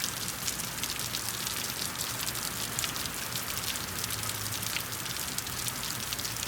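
Steady rain, a dense even patter of many small drops.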